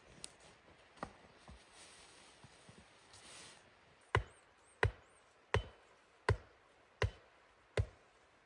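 Wood being chopped: a few faint knocks, then six sharp, evenly spaced chops about 0.7 s apart, starting about four seconds in.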